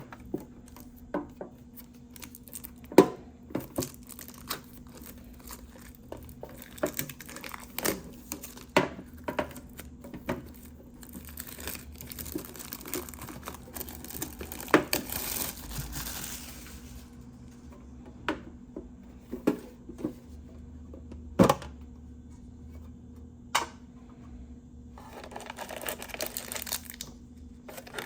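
Plastic wrapping on a Yu-Gi-Oh mega tin crinkling and being torn open, with many sharp clicks and knocks from handling the tin and its contents; longer stretches of crinkling come about halfway through and near the end.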